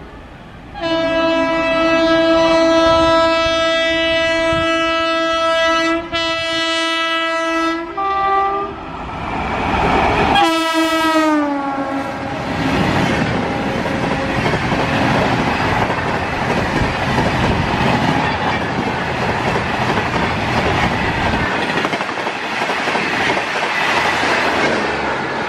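An Indian Railways electric locomotive's two-tone horn sounds as it approaches, held for about seven seconds with a short break. It blows again and drops in pitch as the locomotive passes close by. Then the coaches of a Humsafar Express pass at speed with a steady loud rush and clickety-clack.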